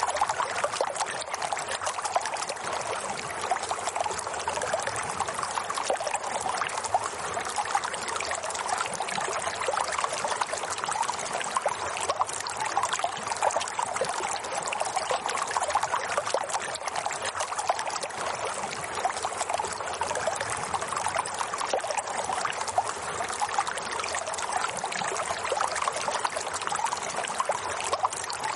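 Running water flowing and trickling steadily, like a stream.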